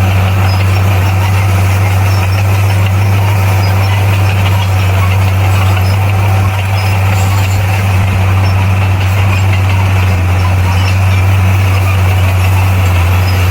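Bulldozer's diesel engine running steadily, a loud, even low drone with no change in pace.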